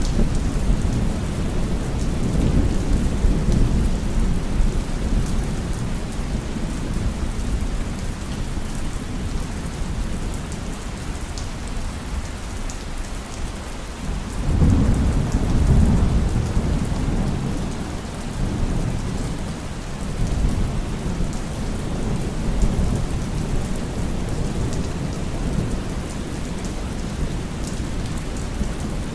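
Heavy rain falling steadily with thunder rumbling low. One roll of thunder fades out in the first few seconds, and a new roll swells up about halfway through, then dies away slowly.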